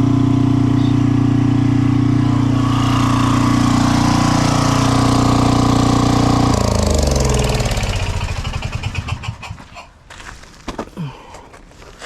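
Small gasoline engine running steadily, then shut off about six and a half seconds in, its pitch falling as it winds down to a stop over about two seconds. A few light clicks and knocks follow near the end.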